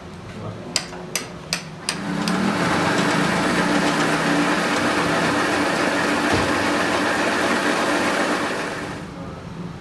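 Four sharp metal knocks, then a workshop machine starts up and runs steadily for about seven seconds with a hissing noise over a steady hum, dying away near the end.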